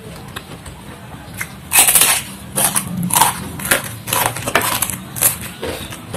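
Crunchy food being chewed close to the microphone: quiet at first, then from about two seconds in a run of loud, sharp crunches, roughly two a second.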